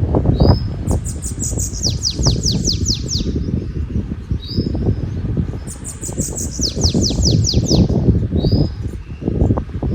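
Wind buffeting the microphone with a steady low rumble, while a small songbird sings two phrases. Each phrase is a short high note followed by about eight quick downward-sweeping notes, and a single short note comes near the end.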